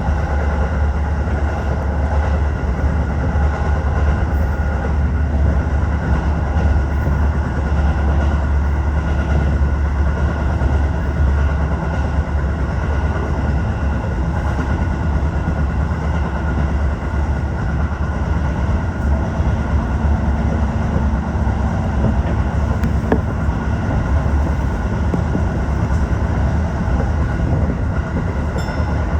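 Tokyo Metro 15000 series electric train running steadily between stations, with a continuous low rumble of wheels and running gear and a few steady tones above it, heard from inside the front car.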